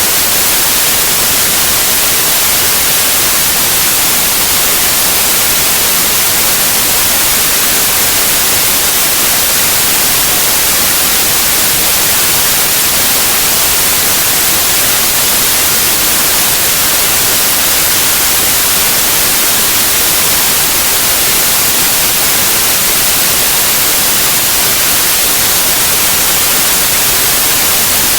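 Steady, loud white noise: an even hiss across all pitches, strongest in the treble, with no change.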